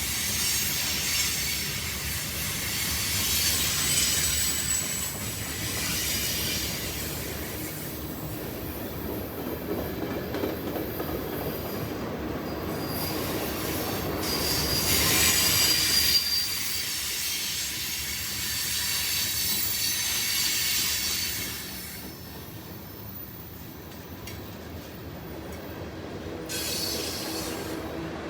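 Freight train cars rolling past, with wheels squealing on the rail at times over a steady rumble. It gets somewhat quieter about three quarters of the way through.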